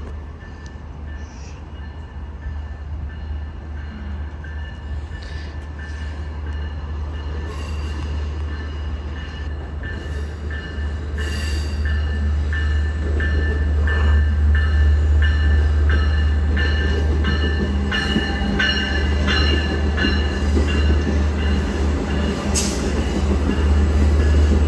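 A Long Island Rail Road train drawing closer, growing steadily louder, with a low rumble, steady high-pitched squealing tones and a run of clicks from the wheels over rail joints and switches.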